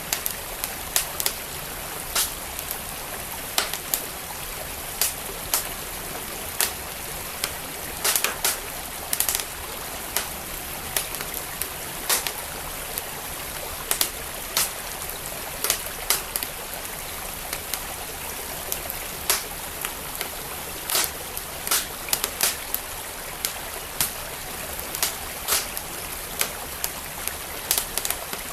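Wood fire crackling in a fireplace, with irregular sharp pops a few times a second, over the steady rush of a flowing stream.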